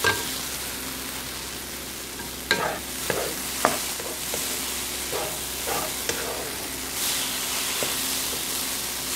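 Crumbled tofu sizzling as it fries in a pan, stirred with a wooden spatula that scrapes and knocks against the pan several times.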